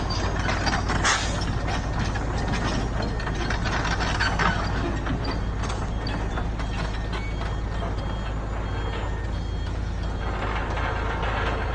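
Heavy construction machinery running steadily, with a low engine hum and frequent metallic clanks and rattles.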